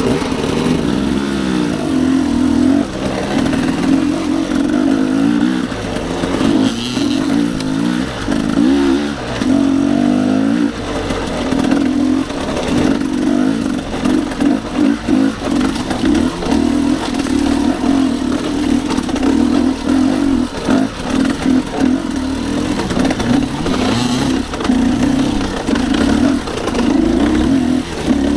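Dirt bike engine running hard under load, revving up and down with the throttle, with brief dips as the rider backs off.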